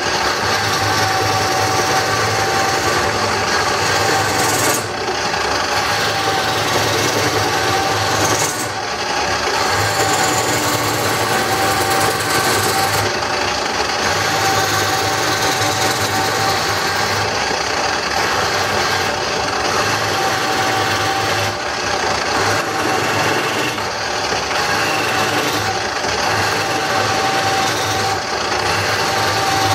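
Craftsman wood lathe running with a steady motor hum while a hand-held turning tool scrapes and cuts into a spinning wooden bowl blank. The rasping sound eases off briefly a few times as the tool comes off the wood.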